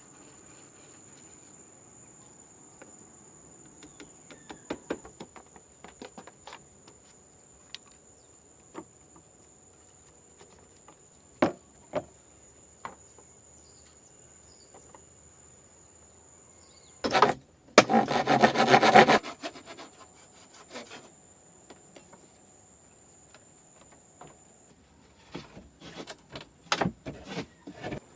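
Wood being handled and worked: scattered knocks and clicks, with a loud two-second stretch of scraping about seventeen seconds in and a quick run of knocks near the end.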